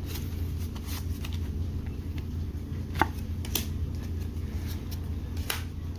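Pokémon trading cards being flicked and slid through in the hands: a few sharp clicks of card on card, the loudest about three seconds in, over a steady low hum.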